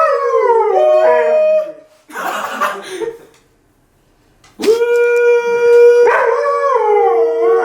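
Husky howling in long drawn-out notes: a wavering howl, a brief pause, then a long steady held howl that breaks into wavering again.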